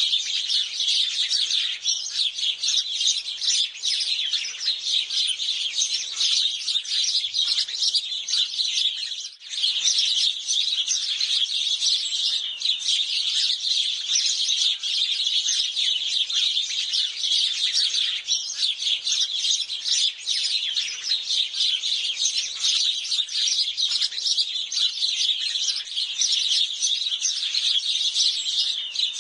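House sparrows chirping together in a dense, unbroken chorus of overlapping chirps, with a brief lull about nine seconds in.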